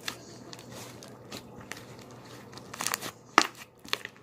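Butter slime being squished and pulled in the hands, giving a run of sticky crackling clicks and pops, the loudest a sharp snap about three and a half seconds in.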